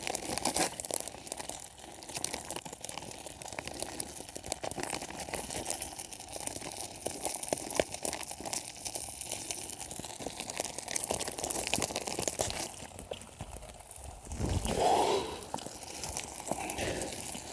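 Wood campfire crackling, a dense, irregular run of small pops and snaps. About fifteen seconds in there is a louder thump and rustle.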